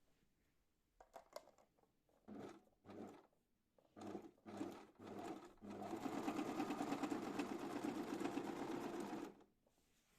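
A small motorised machine running in several short bursts, then steadily for about three and a half seconds before stopping abruptly near the end.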